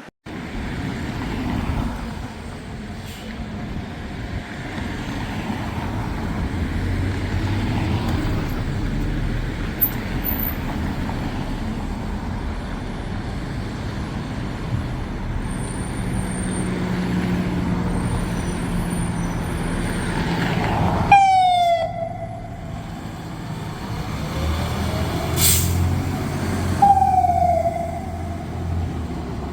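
Steady road traffic and a heavy diesel engine running, then about two-thirds of the way through a fire pumper's siren starts suddenly with quick sweeps and goes into falling wails.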